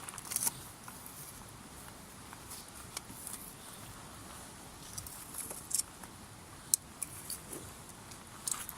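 Wood campfire crackling, with scattered sharp pops and snaps over a soft hiss; the sharpest snap comes about two thirds of the way in.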